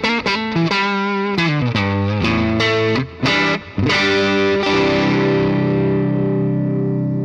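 Electric guitar played through a DemonFX Jan Ray overdrive pedal. It plays a phrase of picked single notes with bends, then holds a chord that rings on and slowly fades for the last couple of seconds.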